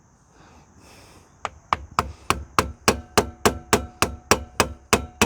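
Hammer striking a steel punch against a rust-seized part of an ATV, beginning about a second and a half in with rapid, even metallic blows, about three a second, each ringing briefly. The part is stuck fast with rust and is not giving.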